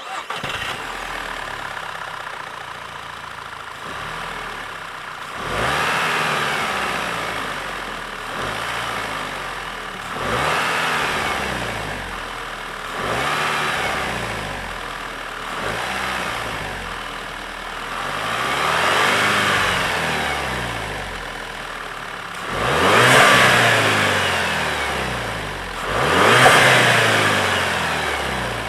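Turbocharged 2.0 TSI four-cylinder engine of a stock Volkswagen Golf 6 GTI, heard through its exhaust. It idles steadily, then is revved about seven times, each rev rising and falling back toward idle. The last two revs are the highest and loudest.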